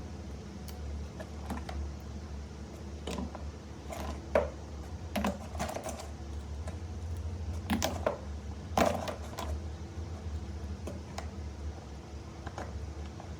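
Irregular light clicks and taps, with a few louder clacks about four, eight and nine seconds in, over a steady low hum.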